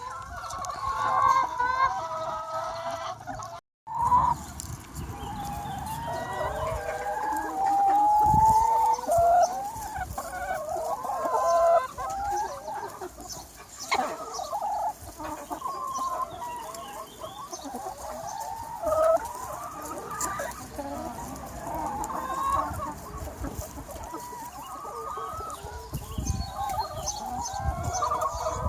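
A large free-range chicken flock clucking and calling, many overlapping hen calls at once. The sound cuts out briefly just under four seconds in.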